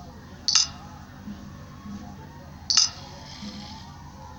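Two short, sharp clicks about two seconds apart, over a steady low background hum.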